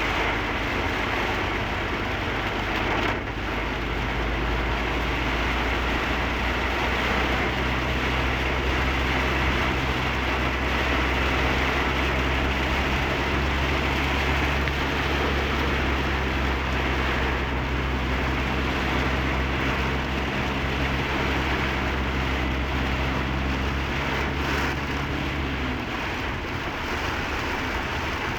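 Heavy rain and road noise from a moving vehicle, with a steady low engine hum underneath. The engine hum drops away near the end while the rain noise carries on.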